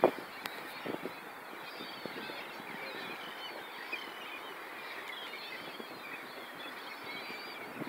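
Many birds chirping and calling over a steady background hiss, with a sharp knock at the very start.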